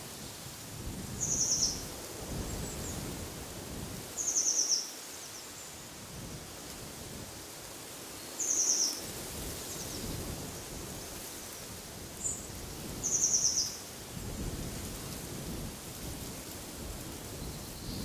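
A songbird giving a short, high, buzzy call four times a few seconds apart, with one brief chirp between, over a low rumble of wind that rises and falls.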